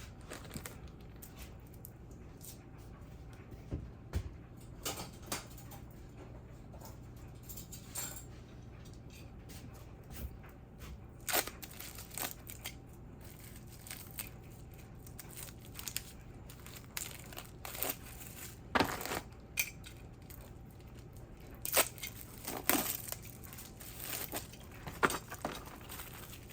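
Scattered crinkling, rustling and light knocks of vegetables and packaging being handled during salad prep, over a steady low hum.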